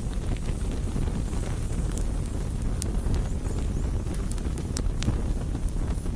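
Wood campfire burning: a steady low rumble with sharp crackles and pops scattered through it, about one every second.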